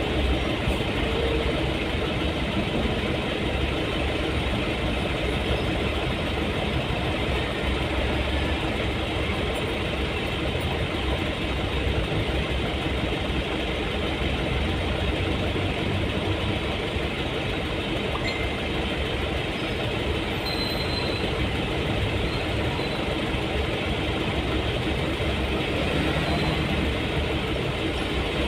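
Steady engine and road noise of a moving vehicle, an even low rumble with no change in pace.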